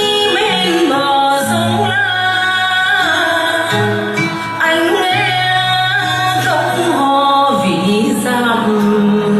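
A song: a singer's voice over instrumental backing, with long held notes that slide between pitches.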